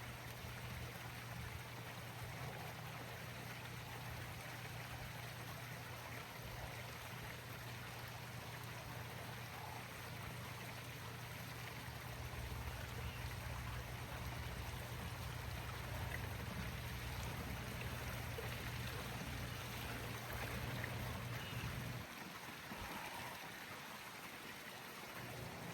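Running water, with a steady low hum underneath that drops out for a few seconds near the end.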